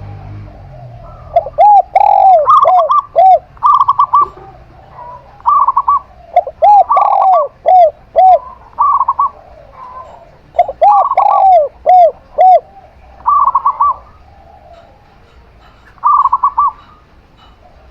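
A zebra dove (perkutut) and a spotted dove (tekukur) cooing in turn. Groups of three or four low, arched coos alternate with quick clusters of higher, rippling notes, repeated about every second or two and pausing near the end.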